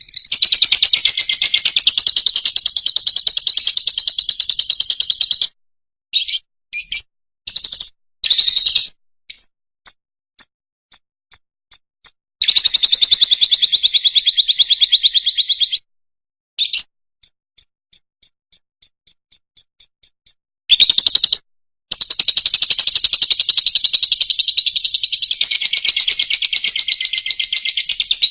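Fischer's lovebird singing: long stretches of rapid, buzzy, high-pitched chattering, broken by runs of short, evenly spaced chirps that speed up, with a few sudden breaks into silence between phrases.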